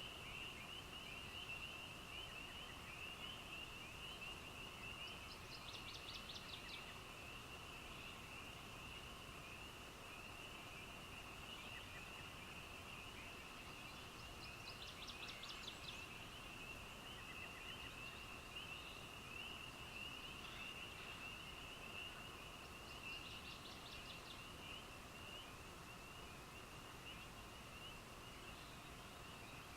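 Faint, steady night chorus of small calling animals, a continuous high-pitched band of calls. About every nine seconds, three times in all, a short higher rapid trill breaks in.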